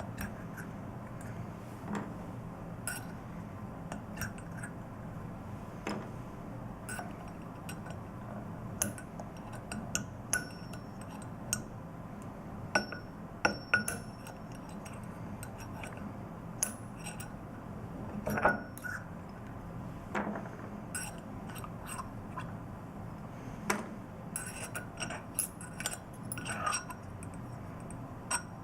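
Irregular clinks and taps of small metal valve parts and hand tools as the control valve's packing is taken apart, a few clinks ringing briefly, over a steady low hum.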